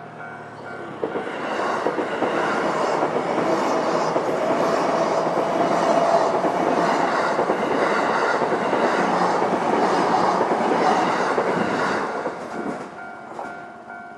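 A train passes through a Japanese level crossing. The crossing's warning bell rings in a steady pulse at first, then the train's noise rises about a second in and runs loud for about eleven seconds, with a regular clatter of wheels over the rail joints. It fades away near the end, and the ringing bell is heard again.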